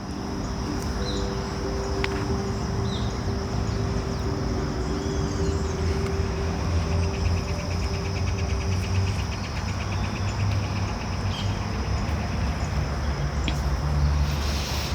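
Outdoor ambience of a park: a steady high-pitched insect drone with a fast rhythmic trill from about six to eleven seconds in, a few short bird chirps, and a low rumble of distant traffic underneath.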